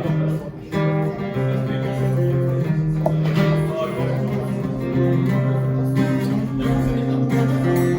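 Instrumental music with strummed guitar chords, with notes held and the chords changing every second or so.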